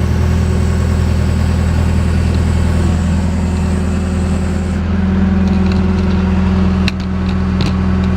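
JCB backhoe's diesel engine running steadily, getting louder about five seconds in, with a few sharp knocks near the end.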